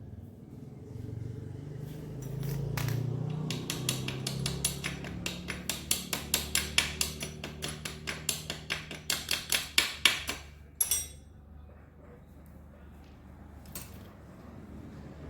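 Rapid, evenly spaced hammer taps, about four a second for some seven seconds, getting louder toward the end and then stopping abruptly.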